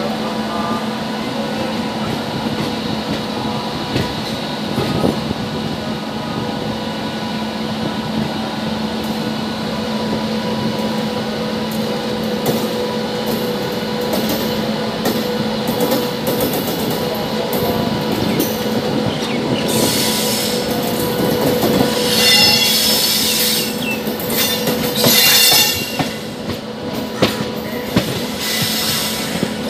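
Passenger train rolling slowly through a junction yard, heard from aboard: a steady hum with scattered knocks from the wheels over rail joints and points. From about twenty seconds in, loud harsh bursts of wheel squeal come as it takes the curving track.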